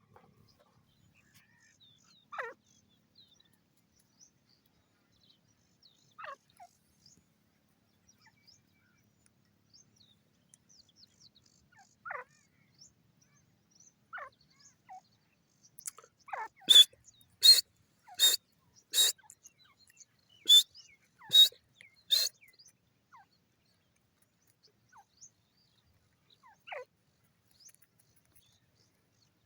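Grey francolin calling: a few scattered short falling notes, then a run of about seven loud, shrill, sharp notes in even succession near the middle.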